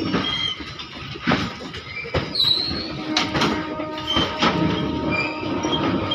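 Loaded freight train of open-top wagons rolling past: steel wheels knock over rail joints in irregular clacks over a steady rumble, with short high squeals from the wheels.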